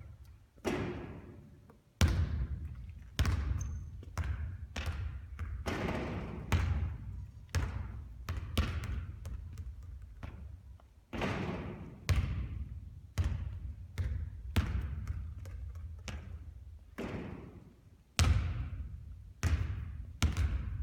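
Basketballs bouncing on a hard court floor in an irregular run of sharp, echoing bounces, about one or two a second, over a steady low rumble.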